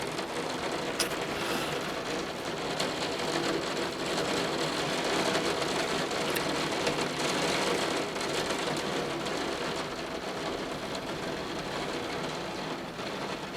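Torrential rain falling steadily as a dense, even hiss, heard from indoors by an open window.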